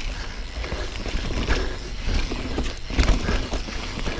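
Yeti SB4.5c mountain bike descending rough singletrack: tyres rumbling over dirt and rocks, with irregular knocks and rattles from the bike and a sharp knock about three seconds in.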